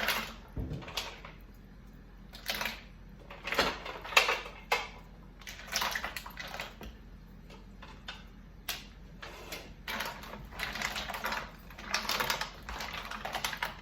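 Mussel shells clattering and scraping against each other and the pot as they are stirred into a tomato stew, in irregular short rattles, some single and some bunched together.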